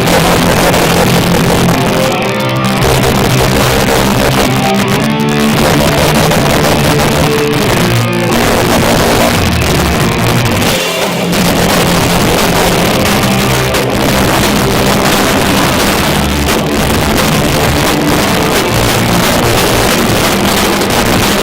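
Live heavy rock band playing at full volume: distorted electric guitars, bass and drum kit, kicking in abruptly at the start. Recorded through a cheap phone microphone, so the sound is harsh and badly distorted.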